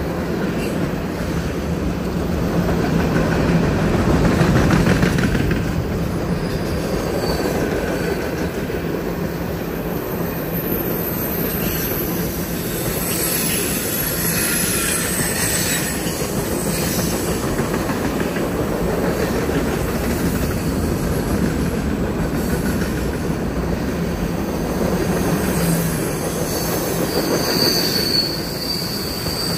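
BNSF freight train's cars rolling past on a curve, a steady low rumble of steel wheels on rail. High wheel squeal comes and goes over it, strongest about halfway through and again near the end.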